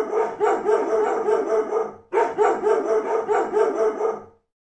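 An animal giving rapid, evenly repeated yapping calls, about four to five a second, in two runs with a short break about two seconds in, stopping shortly before the end.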